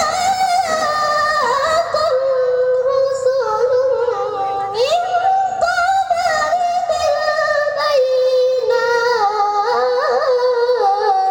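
A qari's voice reciting the Quran in the melodic tilawah style: one long ornamented melisma of held notes, stepping up and down with quick turns, sung without a break.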